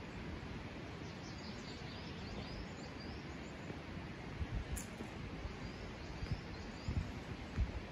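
Small birds chirping: short, high, rising chirps repeated every half second or so over a steady outdoor rushing background. A few low thumps come in the second half.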